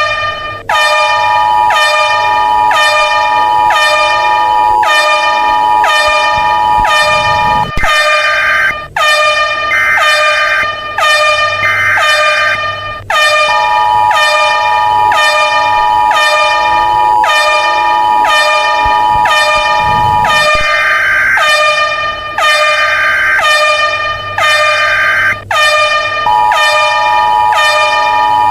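Loud electronic emergency alert alarm: a harsh horn-like tone pulsing about one and a half times a second, each pulse sagging in pitch at its end, with a steady high two-note tone laid over it for stretches of several seconds.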